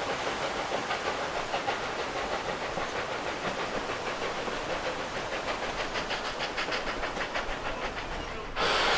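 Narrow-gauge steam locomotive working, its exhaust beating in a fast even rhythm of about five beats a second over a steady hiss of steam. Near the end a much louder hiss of steam cuts in suddenly.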